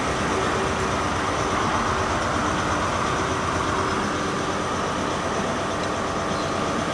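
Class 43 HST power car's diesel engine running steadily, a constant engine drone with faint steady tones.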